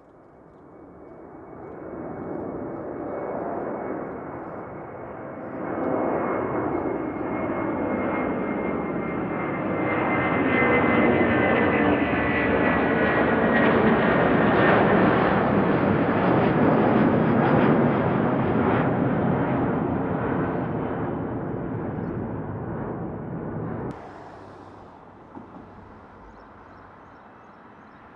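Airbus A330-200 jet airliner passing close by, its engine noise building up over several seconds, at its loudest in the middle, then fading, with a high whine that slides slightly down in pitch. Cuts off suddenly about 24 seconds in, leaving only a quieter background hiss.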